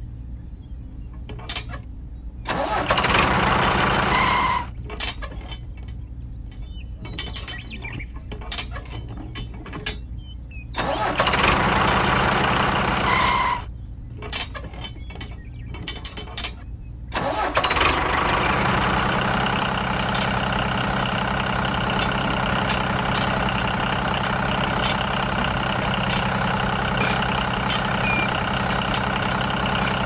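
A low, steady engine hum, with light metal clicks as trailer hitch pins are fitted. It swells twice into louder running, and from a little past halfway runs steadily and louder as the model tractor pulls its trailers.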